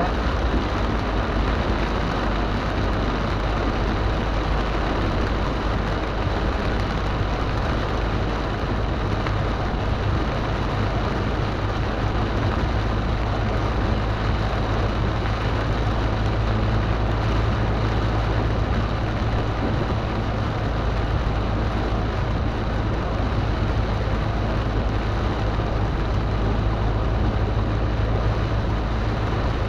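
Steady road noise and a low engine hum inside a car's cabin, driving on a motorway in heavy rain, with the hiss of rain and wet tyres on the road.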